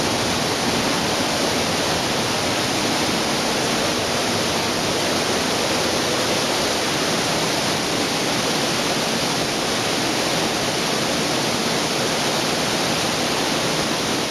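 Steady rush of a wide, low curtain waterfall, about 10 m high and 20 m across, pouring without a break.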